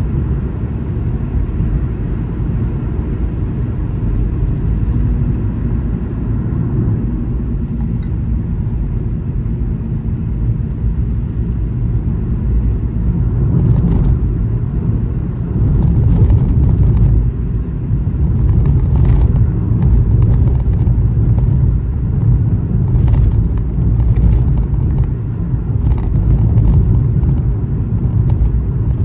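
Car road noise at highway speed: a steady low rumble, with brief sharper ticks and hiss coming through now and then from about halfway in.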